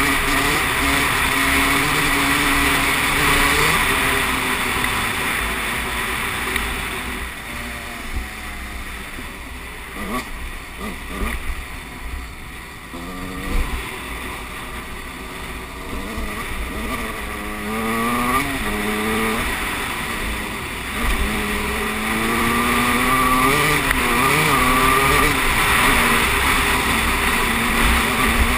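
Motocross bike engine revving up and down, its pitch rising and falling with the throttle. It drops back quieter for several seconds around the middle, then revs harder again toward the end.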